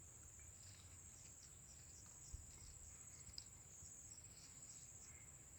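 Faint, steady high-pitched trilling of insects, with a couple of faint ticks.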